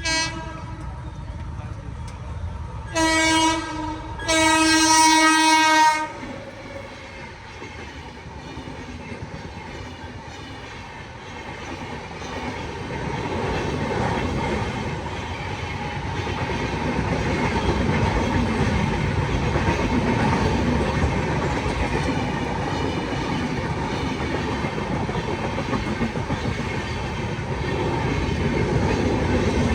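An Indian Railways train sounds its horn: a short blast, then a longer blast. About twelve seconds in, the rumble of the train passing over the rails builds up, with wheels clacking.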